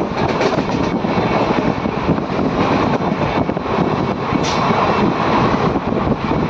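Passenger train running at speed, heard from inside a sleeper coach: a steady, loud rush of wheel-on-rail noise and wind. There is one brief sharp click about four and a half seconds in.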